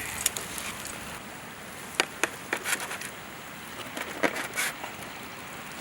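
Campfire crackling: irregular sharp pops over a steady hiss.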